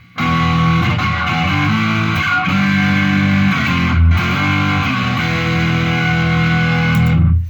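Electric guitar, a Mexican-made Fender Telecaster with Seymour Duncan Hot Rails pickups, played through an amp at full gain with a Tube Screamer overdrive pedal on top: a heavily distorted passage of held, changing chords that stops abruptly near the end.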